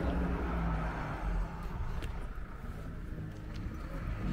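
A motor vehicle's engine running close by, a steady low hum that fades away about a second and a half in, leaving quieter outdoor background noise.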